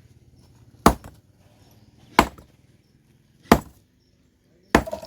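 Four heavy hammer blows on stone, evenly spaced about a second and a quarter apart, each a sharp crack with a short ring.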